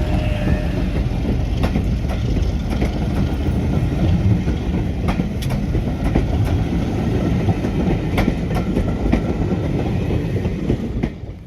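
Diesel-hauled train running on the track: a heavy, steady low rumble, with wheels clicking over rail joints at irregular intervals. The sound falls away abruptly near the end.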